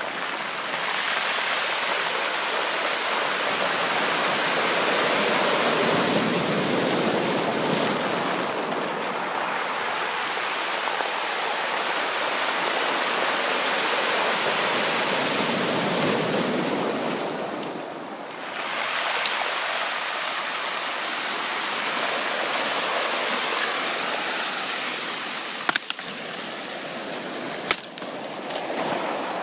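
Sea surf washing up a beach: a continuous rush of waves that swells and eases, with a brief lull partway through. A few sharp clicks near the end.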